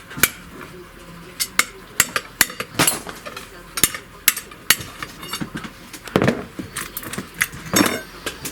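Hammer tapping a long steel punch, about two sharp metallic strikes a second with a bright ring, driving the rocker-arm shaft out of a Mercedes A140's aluminium cylinder head.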